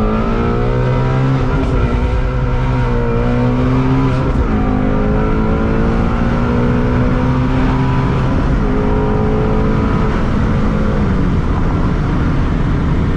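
Ford Mustang Shelby GT350's 5.2-litre flat-plane-crank V8 running under way, loud and steady, its note stepping down in pitch a few times.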